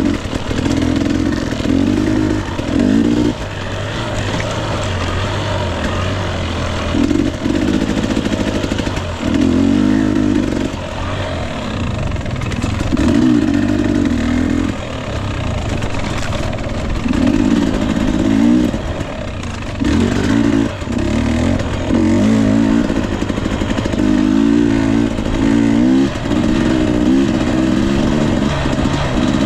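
Husqvarna TE 250i two-stroke dirt bike engine under way, opened up in repeated bursts of throttle a second or two long, dropping back between them.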